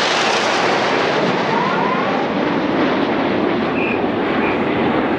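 Red Arrows BAE Hawk T1 jets (Adour turbofans) flying past in the display: loud, steady jet engine noise whose high hiss dulls over the first few seconds as the jets draw away.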